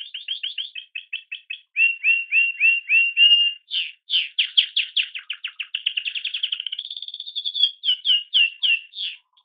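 Canary singing a continuous song of phrases, each made of one note repeated many times. It moves from a fast trill to slower curved notes, back to a fast trill, and ends with a few slower notes.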